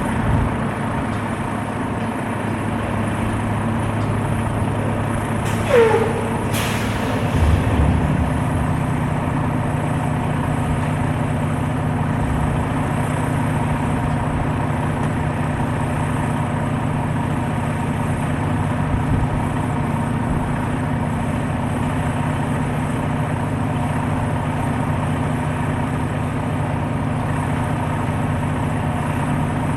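Heavy truck diesel engine idling steadily. About six seconds in there is a short falling squeal and then a brief hiss of released air, after which the idle hum settles on a slightly different pitch.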